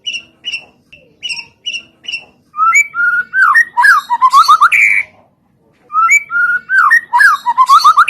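Birdsong from a white-rumped shama (murai batu) lure recording. It opens with short, evenly repeated chirps, about three a second. From about two and a half seconds in come loud, rapid whistled phrases with sliding notes; they break off, then return about a second later.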